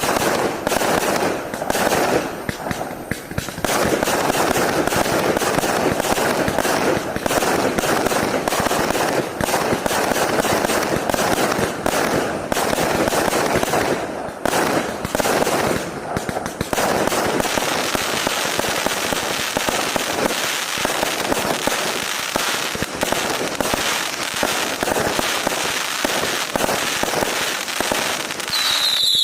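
A 1200-shot, 0.6-inch firework cake firing a fast, unbroken stream of shots, one on top of the next, with short lulls only a few times.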